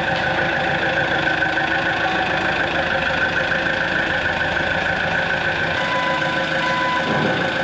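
Engine of heavy shop equipment running steadily at idle, with a steady whine over it and two short beeps about six seconds in.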